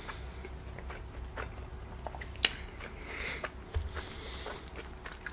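A person chewing a bite of cheeseburger, with scattered small mouth clicks and one sharper click about two and a half seconds in.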